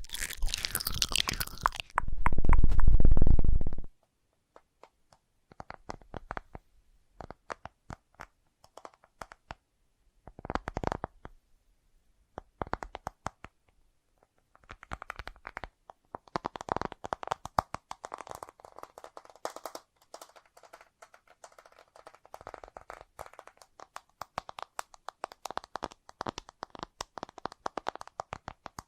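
Close-miked ASMR tapping on objects: quick flurries of sharp taps with short pauses between them. The first few seconds hold a loud low rumbling noise that stops suddenly about four seconds in.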